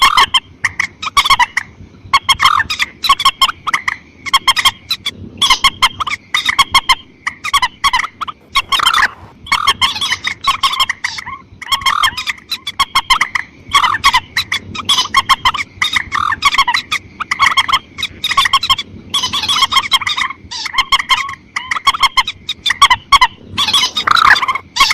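Lure recording of mandar sawah (paddy-field rail) calls: many short, loud notes in quick runs, broken by brief pauses.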